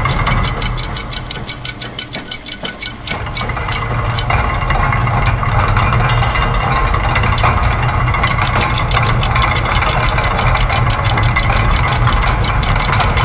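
Layered loops of factory machine sounds: rapid, even mechanical clicking, like gears and ratchets, over a steady low machine hum. The mix thins out briefly near the start and then fills back in.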